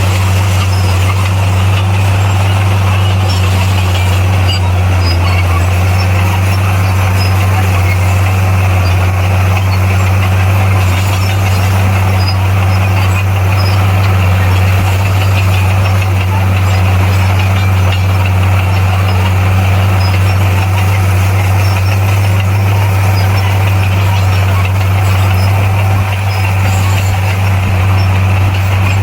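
Heavy diesel engine of earthmoving equipment running at a steady speed: a constant loud low hum that stays unchanged throughout.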